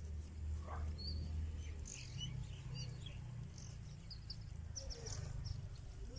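Birds chirping in short, scattered calls over a low steady rumble, with a thin steady high-pitched whine throughout.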